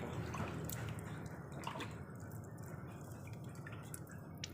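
Faint, scattered drips of water over a steady low hum.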